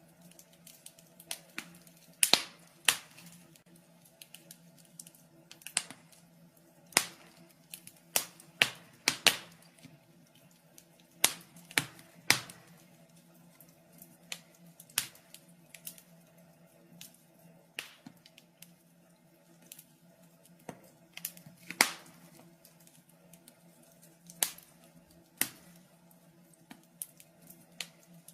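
Wood fire crackling in a fireplace: irregular sharp pops and snaps, a few each second at uneven spacing, over a faint steady low hum.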